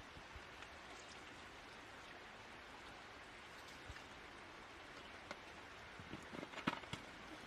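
Campfire crackling: a steady faint hiss with scattered sharp pops, and a quick run of louder pops near the end.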